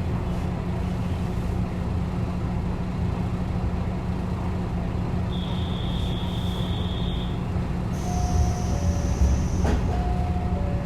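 Diesel railcar heard from inside the cabin, its engine humming steadily. A high electronic tone sounds for about two seconds midway. Near the end another high tone comes with a two-note alternating chime and a brief click.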